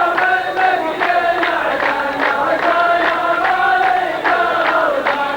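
A group of voices chanting a sung-poetry (mawwal) melody in unison, with long held notes that waver in pitch, over sharp percussive strikes.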